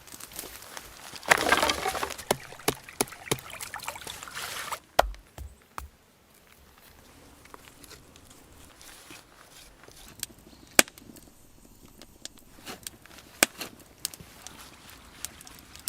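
Dry brush and wood being handled: a few seconds of dense rustling and crackling, then a handful of separate sharp knocks of wood.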